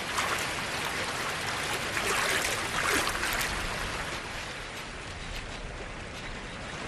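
Creek water rushing steadily over rocks, a little louder about two to three seconds in.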